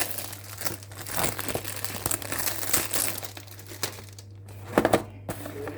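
Crinkling and rustling of something crinkly being handled, with many short crackles and a couple of louder knocks near the end, over a faint steady low hum.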